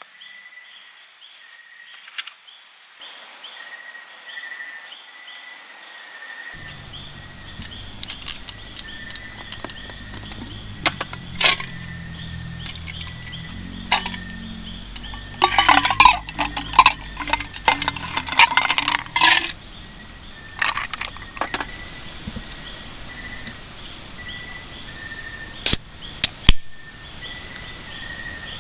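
Clinking and clattering of small hard objects, thickest in a cluster around the middle, with two sharp clicks near the end. Underneath runs a steady pulsing chirp of night insects.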